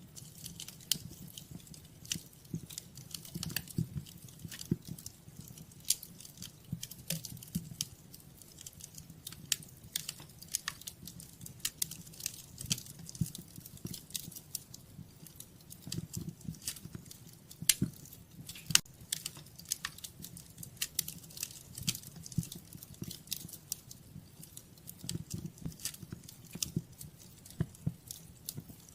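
Wood fire burning in a fireplace, with irregular sharp crackles and pops over a low, steady rumble of the flames.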